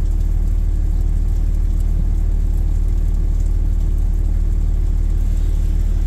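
Car engine running with a steady low rumble, heard from inside the car's cabin.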